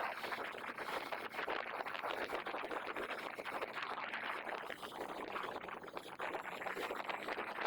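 Steady rushing noise of a moving vehicle on the road, engine and wind mixed, with a faint low hum throughout.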